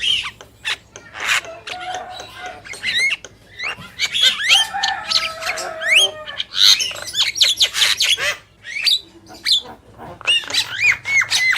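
Javan myna (jalak kebo) male and female calling in a busy, unbroken stream of sharp clicks, quick rising and falling whistles and a few held lower notes.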